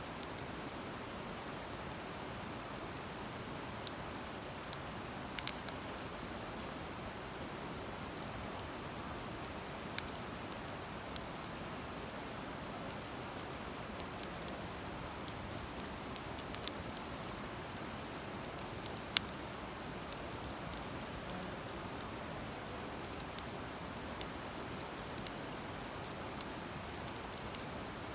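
Wood campfire crackling: scattered sharp pops and snaps over a steady rushing hiss, with one louder pop about two-thirds of the way through.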